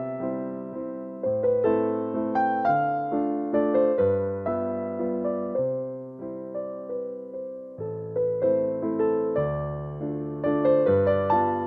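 Background music: a gentle electric piano playing chords and a simple melody, each note struck and fading.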